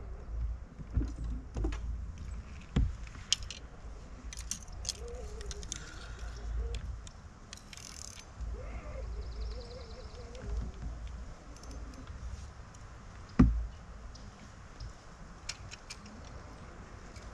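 Wind buffeting the microphone as a low rumble, with scattered small clicks and rattles of gear and one sharp knock about 13 seconds in.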